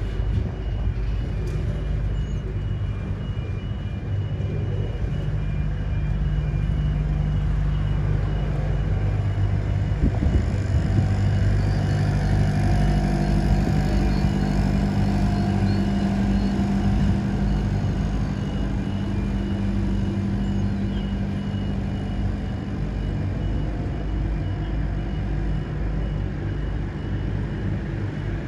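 Intermodal freight train's container wagons rolling past at speed: a steady rumble of steel wheels on the rails, with an even low drone underneath.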